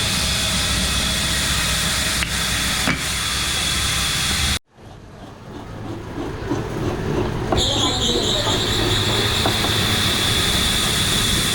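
Steady machinery noise with a constant high-pitched whine, which cuts off abruptly a little under halfway through and builds back up over a few seconds to the same steady level.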